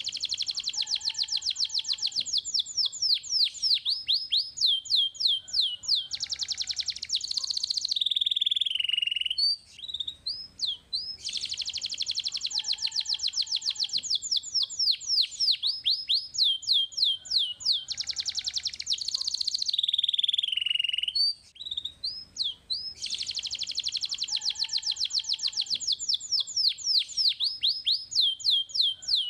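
Young domestic canary singing a long song of rapid high trills and quick sweeping notes. The same song phrase repeats three times, with a short pause near the middle and another about two thirds of the way through.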